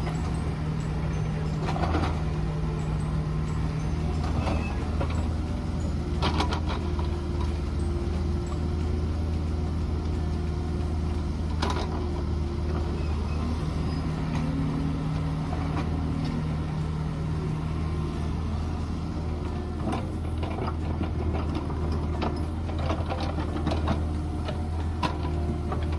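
Mini excavator's diesel engine running steadily, with a hydraulic whine that comes and goes as the machine works, and a few sharp clanks.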